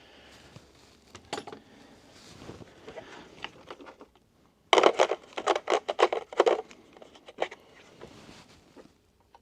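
A quick run of about ten sharp knocks a little past halfway, spread over about two seconds, with scattered clicks and handling noise before and after.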